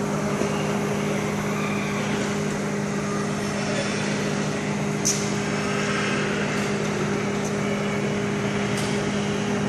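Microwave oven running while heating a bar of soap: a steady electrical hum over the noise of its fan, with one faint tick about five seconds in.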